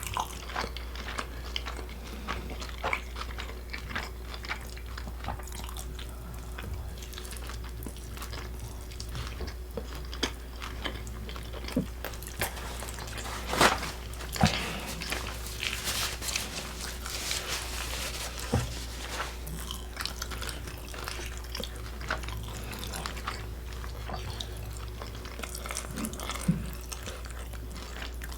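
Close-up eating sounds: biting and chewing food, with scattered crunches and small clicks, the loudest crunches about halfway through, over a steady low hum.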